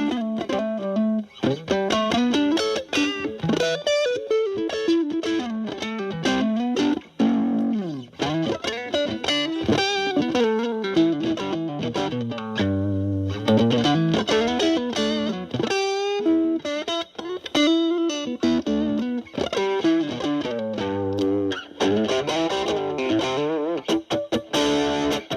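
Stratocaster electric guitar through a Boss DS-2 Turbo Distortion pedal in its normal (non-turbo) mode, distortion at about 10 o'clock, into a Marshall Valvestate amp's clean channel, playing improvised single-note lead lines with string bends and vibrato.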